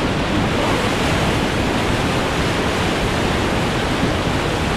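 Whitewater rapids of the Chattooga River rushing around the raft in a loud, steady noise.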